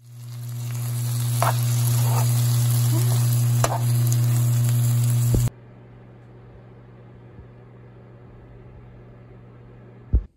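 Kimchi fried rice sizzling in a frying pan over a steady low hum, with a few sharp scrapes or taps of the utensil. About five and a half seconds in it cuts abruptly to a much quieter, softer sizzle.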